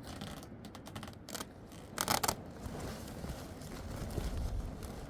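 Handwork noises: scraping and rustling with a few sharp knocks, the loudest a brief harsh scrape about two seconds in.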